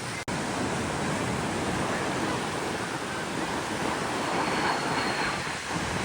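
Steady rushing noise of ocean surf with wind on the microphone, broken by a very brief gap just after the start.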